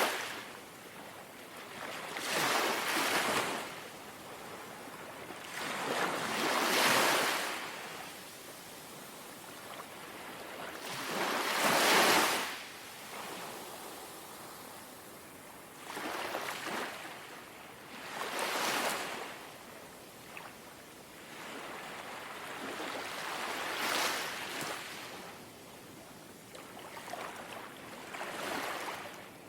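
Small, gentle sea waves lapping ashore. Each wash of water swells and fades, about seven or eight in all, a few seconds apart.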